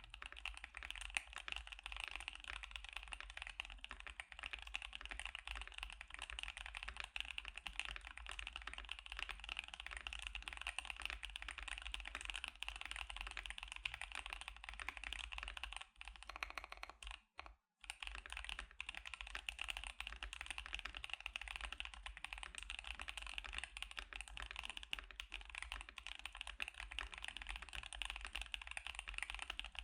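Fast continuous typing on a KBD75 mechanical keyboard fitted with Gazzew Boba U4T tactile switches and CannonCaps CXA Sugarplum keycaps: a dense stream of keystroke clacks, broken by a brief pause a little past the middle.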